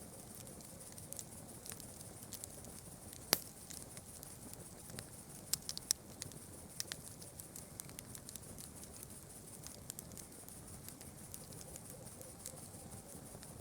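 Campfire crackling, with irregular sharp pops and snaps, one louder pop a little over three seconds in, over a steady high hiss.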